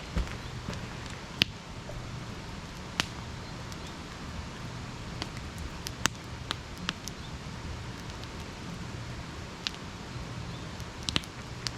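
Wood campfire burning: sharp crackling pops every second or two over a steady low rush, with a loud pop about a second and a half in and a quick cluster of pops near the end.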